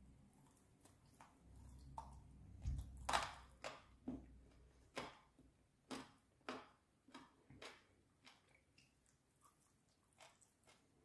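Close-miked chewing of crispy fried chicken: a run of crunches starting about two seconds in, loudest around three seconds, easing into softer, sparser crunches towards the end.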